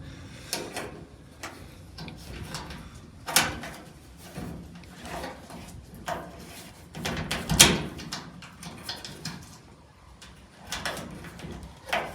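Scattered small clicks and light metallic knocks from hand work on the new gas tank, fitting the ground and positive wires to its fuel sending unit, with one louder knock about seven and a half seconds in.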